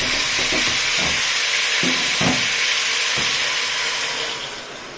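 Blended green salsa poured into a pot of pork ribs frying in hot lard, sizzling steadily, the sizzle fading away near the end. A few dull knocks sound under it.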